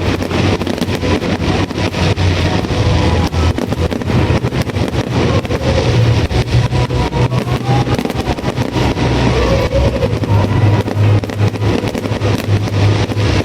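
Fireworks display: dense rapid crackling and popping over a continuous low rumble.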